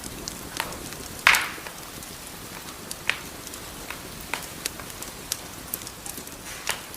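Wood fire crackling: a steady low hiss with scattered sharp pops and snaps, the loudest about a second in.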